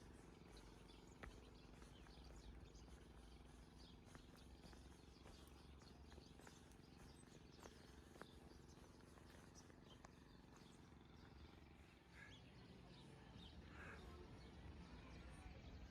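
Near silence: faint outdoor ambience with scattered faint clicks and a few faint bird chirps.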